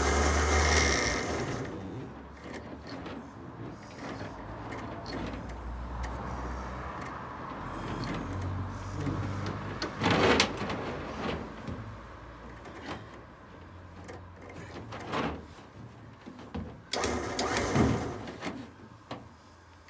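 Electric winch on a recovery truck winding in its steel cable in short runs of motor hum, with knocks and clanks from the cable and drum. The cable is kinked and keeps slipping as it spools.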